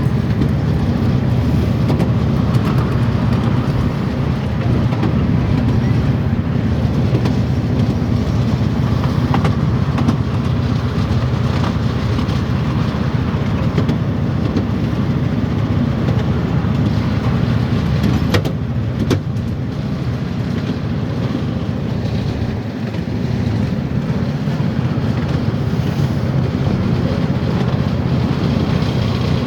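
Steady low rumble of a moving train, with a couple of sharp clicks about two-thirds of the way through.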